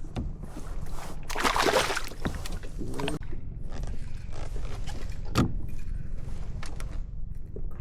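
Handling noise aboard a fishing kayak over a steady low rumble: a noisy rustling or splashing burst about a second and a half in, and a sharp knock about five and a half seconds in.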